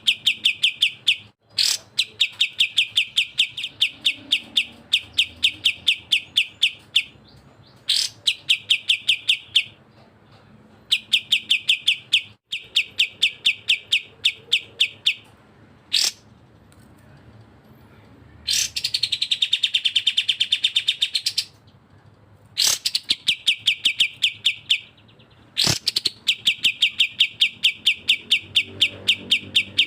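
Bulbul song: a string of fast trills of rapid, evenly repeated notes, each trill lasting one to five seconds. Single sharp upswept notes fall between the trills, and one denser, faster trill comes about two-thirds of the way through.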